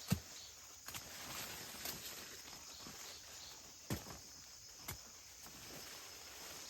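Insects keep up a steady high-pitched drone, broken by five sharp, irregular knocks or thuds; the first is the loudest.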